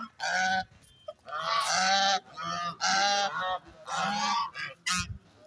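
Domestic geese honking, a series of about five loud calls roughly a second apart.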